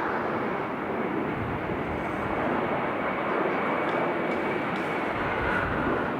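Jet airliner engine noise: a steady rushing with a faint high whine that drops in pitch near the end.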